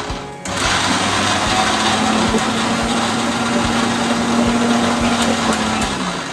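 Electric mixer grinder (mixie) grinding ginger and garlic into paste. The motor starts again after a brief pause, runs with a steady whine, and winds down near the end, its pitch dropping as it stops.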